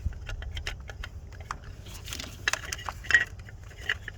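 Irregular light metallic clicks and clinks of hand tools and small engine parts being handled, a few louder ones past the middle, over a low steady rumble.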